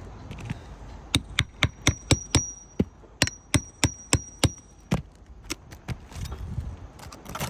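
Hammer striking a steel cat's claw nail puller to dig it under a roofing nail head: about a dozen quick metal-on-metal blows in two runs, three to four a second, several with a high ring, then a few lighter taps.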